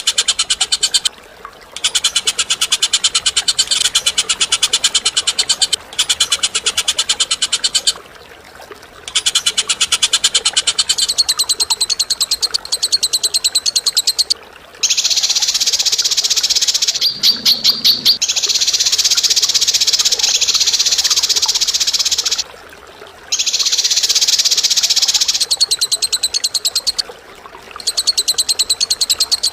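Cage bird's harsh, rapid chattering trill, given in long bouts broken by short pauses, with a few slower, louder strokes about halfway through.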